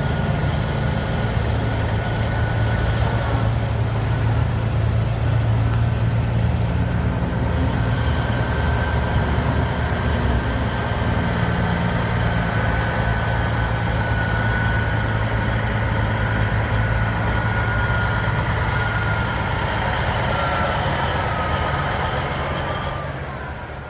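Heavy truck engine running steadily, with a faint high whine drifting slightly in pitch; the sound fades away near the end.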